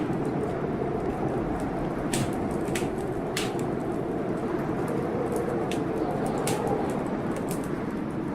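Wood fire crackling, with a few sharp pops scattered irregularly, over a steady rushing storm noise.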